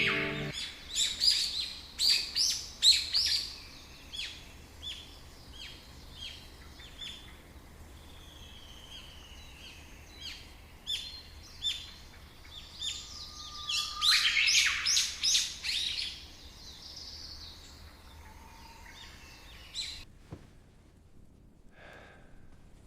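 Forest birds singing: two loud flurries of rapid high chirps with scattered quieter calls between them. The birdsong cuts off suddenly about twenty seconds in.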